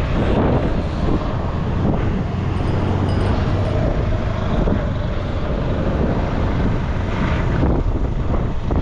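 Wind buffeting the microphone: a steady low rumble with a noisy hiss above it.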